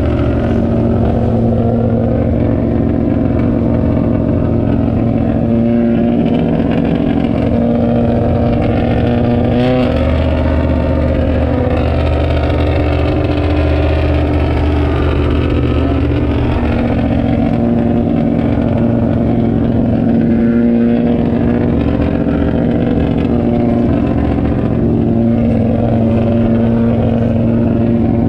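Stock car engines running at racing speed: a loud, steady drone whose pitch drifts up and down.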